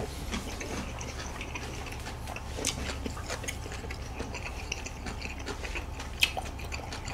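People chewing food with closed mouths: faint, irregular small wet clicks and smacks over a low steady hum.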